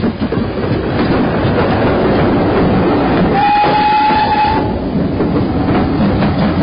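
A train running, with one steady horn blast lasting over a second about halfway through.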